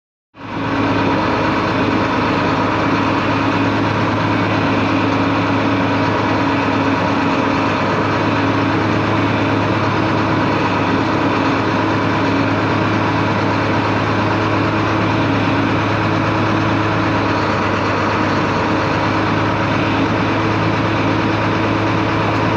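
An engine running steadily at one constant speed, with a continuous hiss over it and no change in pitch.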